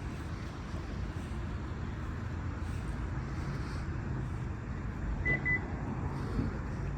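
Steady low rumble of a car, with two short high electronic beeps a quarter-second apart about five seconds in.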